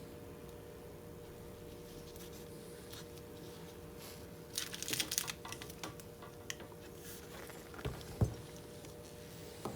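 Hand work on a laptop LCD panel's polarizing film: a short stretch of crackling and rustling about halfway through, a few light clicks, and a soft thump near the end, over a faint steady hum.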